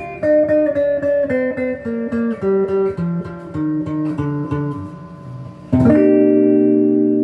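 Donner DLP124 electric guitar played through an amp's clean channel: a run of quick picked single notes stepping mostly downward, then a strummed chord near the end that rings on.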